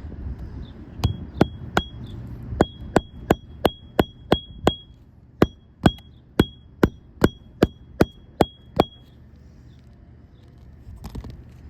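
Hammer driving roofing nails back in under a lifted architectural shingle: three runs of quick strikes, about three a second, each with a short metallic ring, stopping near the end.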